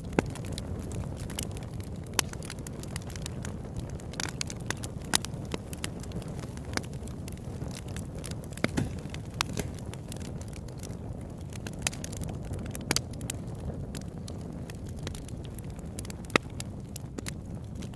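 Campfire burning: a steady low rumble of flame with irregular sharp crackles and pops from the burning wood, a few standing out louder.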